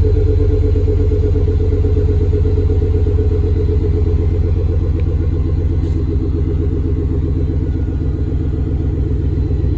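Chevrolet Monte Carlo's LS4 5.3-litre V8 idling steadily just after a cold start, with a loud, deep exhaust rumble and no revving.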